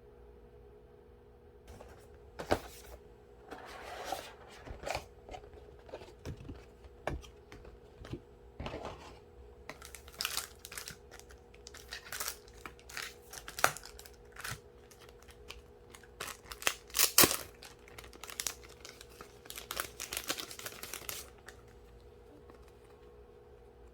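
Packaging being handled and torn open by hand: irregular crinkling, rustling and tearing with sharp clicks and taps, which stops a couple of seconds before the end.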